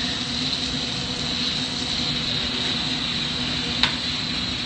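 Steady hum and hiss of a glassblowing hot shop: a lampworking torch flame running under the drone of the shop's ventilation fans. One sharp click about four seconds in.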